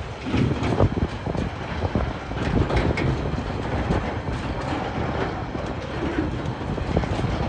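Empty log wagons of a freight train rolling past, their wheels rumbling on the rails with many irregular knocks and rattles.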